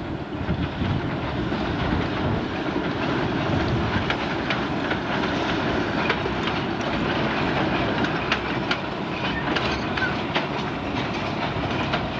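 Narrow-gauge train running: a steady rumble of wheels on the track, with many sharp clicks at irregular intervals.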